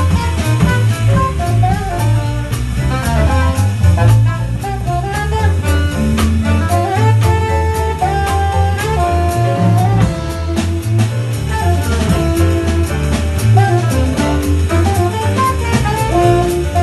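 Jazz band playing: a saxophone line over walking bass and drum kit with cymbals, with piano and guitar in the band.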